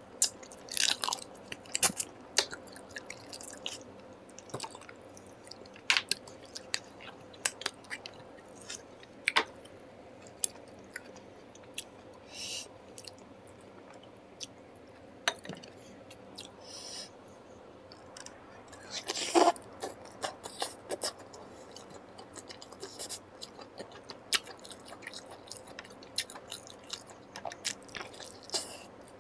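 Close-miked chewing and biting of curry and rice: wet mouth smacks and short crunches, scattered irregularly. One longer, louder crunch about two-thirds of the way through.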